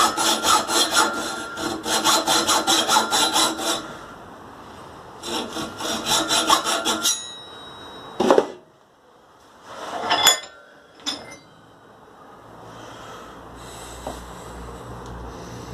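Hacksaw cutting through a metal pipe in quick back-and-forth strokes, in two runs with a short pause between. It stops about seven seconds in, followed by a few brief knocks and clinks.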